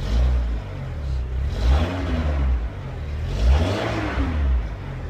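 Skoda Octavia's 1.6 litre 8-valve AEH inline-four petrol engine being revved from idle: a short blip at the start, then two longer revs that rise and fall in pitch. It settles back to a steady idle near the end.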